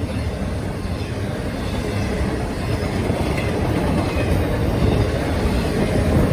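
Norfolk Southern train rolling past, a steady rumble and clatter of wheels on the rails that grows a little louder toward the end.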